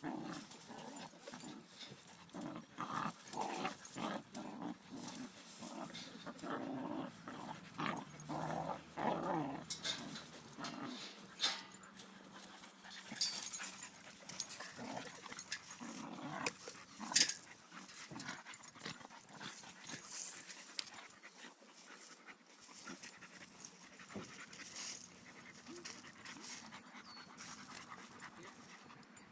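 Golden Retriever puppy and Boxer rough-housing: dogs panting and scuffling, with scattered sharp clicks and knocks throughout.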